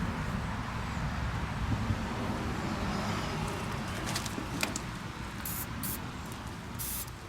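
A few light metallic clicks from tools working the bolts of a Ford NAA tractor's rear brake backing plate, over a steady low rumble, with short bursts of hiss in the second half.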